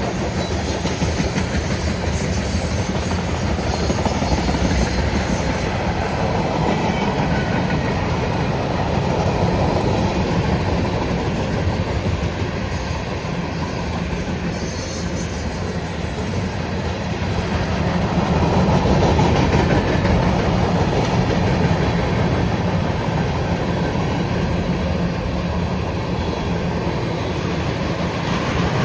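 A CSX mixed freight train's cars roll past, their wheels running steadily on the rails with a continuous rumble and clatter.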